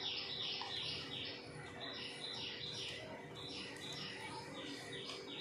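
A small bird chirping over and over, short falling chirps at about two or three a second.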